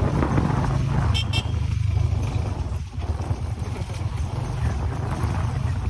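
Vehicle engine running steadily on the move, a loud low rumble with road and wind noise, and two short high chirps about a second in.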